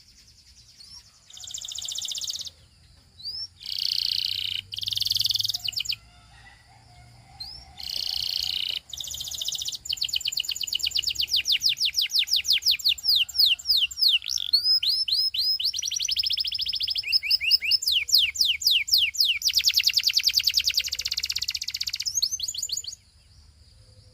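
Canary singing: a few short phrases first, then long fast trills of rapidly repeated notes that change pitch from one phrase to the next. The song stops about a second before the end.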